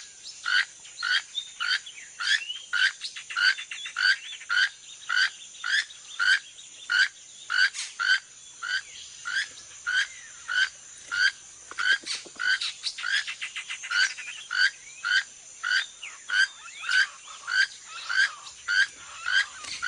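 Toucan calling: a long, even series of short, rasping calls, nearly two a second, over a steady high-pitched insect drone.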